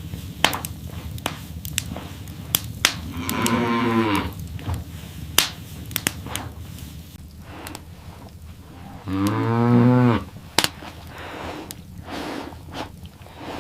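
A cow mooing twice, each call about a second long, the second louder with a falling pitch. Scattered sharp clicks are heard between the calls.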